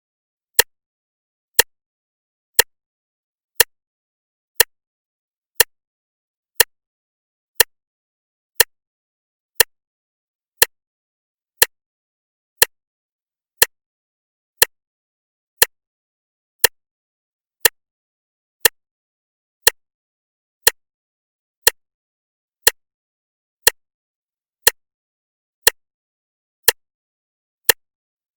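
Clock ticking steadily, one sharp tick every second with silence between ticks.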